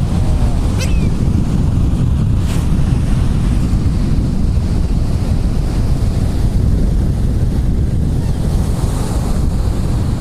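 Wind buffeting the microphone over steady ocean surf, with a short gull call about a second in.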